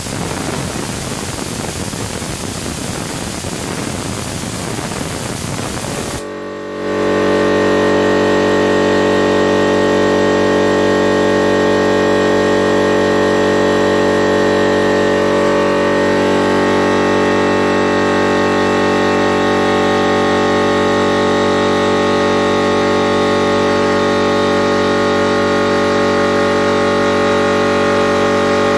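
Compressed air hissing out steadily for about six seconds, then stopping abruptly as the 50-litre air compressor's motor and pump cut in and run steadily and loudly.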